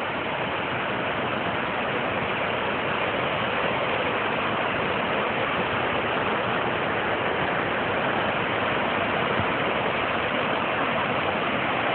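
A waterfall's water rushing steadily.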